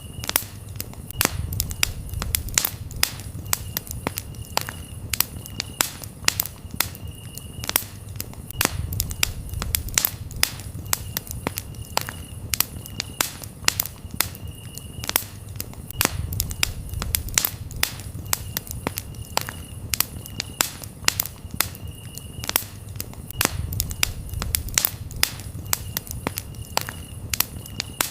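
Campfire crackling, with many sharp pops of burning wood several times a second over a low rumble of flames that swells every few seconds. Crickets chirp in short repeated spells of a steady high tone.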